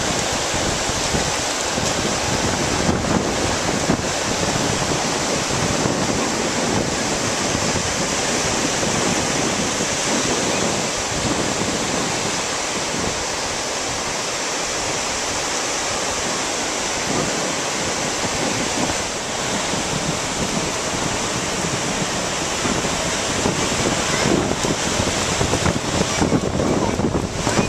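Ocean surf washing onto a beach in a steady rush, with wind buffeting the microphone.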